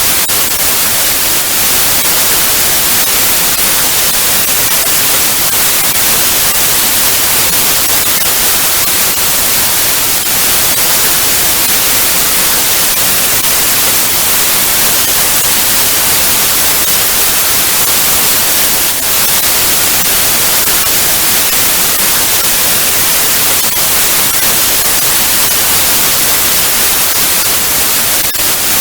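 Television static: a loud, steady hiss of white noise, brightest in the high end, with a few faint crackles.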